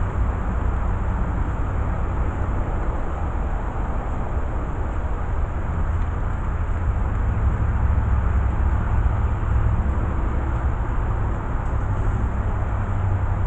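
Steady outdoor rumble, heaviest in the deep lows, with an even noise haze above it and no distinct events.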